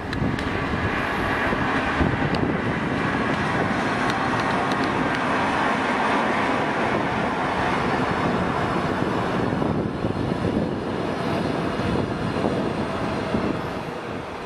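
Rhaetian Railway electric passenger train running past, a steady rumble of wheels on rail that eases off gradually in the last few seconds as the train draws away.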